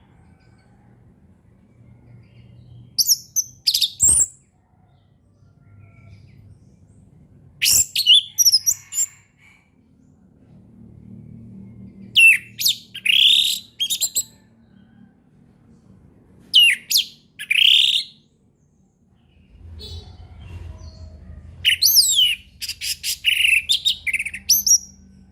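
Orange-headed thrush singing its full 'ngeplong' song in five separate phrases a few seconds apart, each a quick run of high whistled notes. A faint low hum lies underneath.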